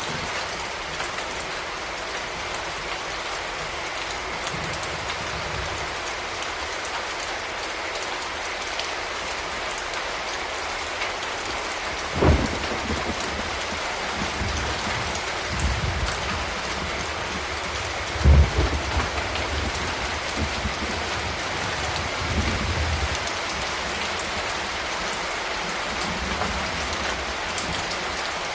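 Steady rain falling and pattering on hard surfaces, an even hiss throughout. Low rumbling comes and goes underneath, with two sharp louder thumps about 12 and 18 seconds in.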